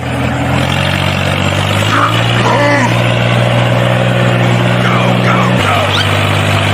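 Steady engine-like drone from a vehicle, its pitch stepping abruptly about two seconds in and again near the end, with voices rising and falling over it.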